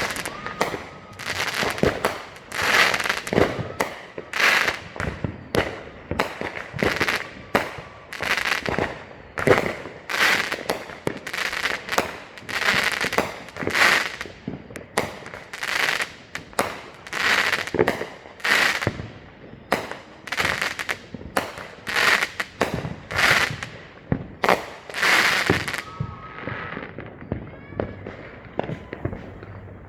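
Neighbourhood consumer fireworks going off in a near-continuous barrage of bangs and crackling, thinning to scattered quieter pops about four seconds before the end.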